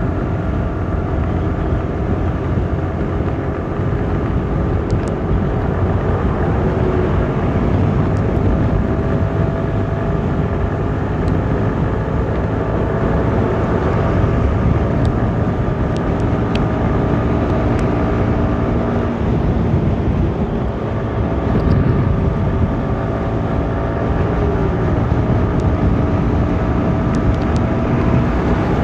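Motorcycle engine running steadily at cruising speed while riding, its note shifting slightly about two-thirds of the way through.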